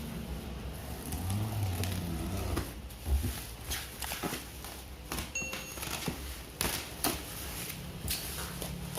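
Handling of the vacuum cleaner's cardboard box and packaging: scattered knocks, taps and crackles.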